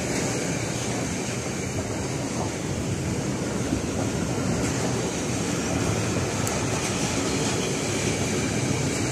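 Container freight train rolling past, its flat wagons loaded with shipping containers and tank containers: a steady noise of wheels on rail and rattling wagons.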